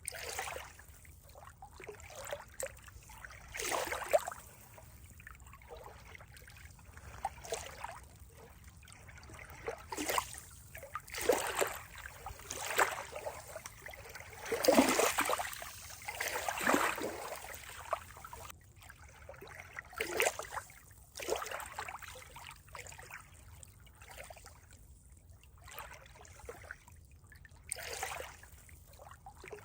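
Water trickling, with irregular surges every second or two and the strongest one about halfway through.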